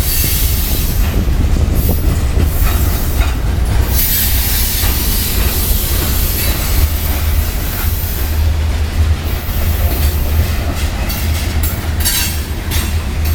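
A long train rolling slowly past close by: a steady heavy rumble with the rattle and clicking of car wheels over the rail joints.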